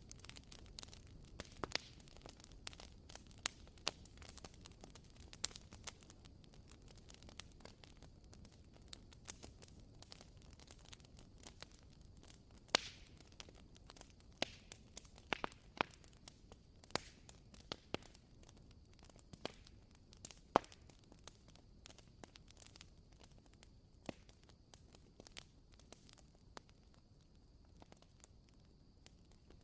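WoodWick candle's wooden wick crackling softly, with irregular small pops scattered through, like a tiny campfire.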